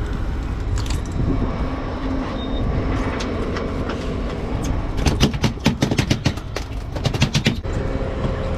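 Steady low rumble of a boat at sea, with a quick run of sharp clicking and rattling for about two and a half seconds past the middle.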